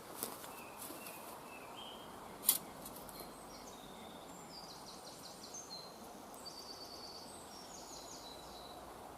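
Small birds singing short, rapid trills and chirps over a steady background hiss, with a few sharp clicks, the loudest about two and a half seconds in.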